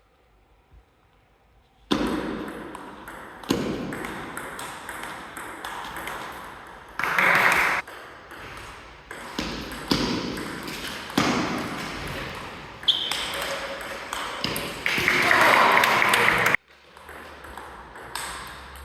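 Table tennis rally: the ball is struck back and forth with bats and bounces on the table, sharp pings about once a second with an echo, starting about two seconds in. There are loud bursts of shouting, the longest near the end.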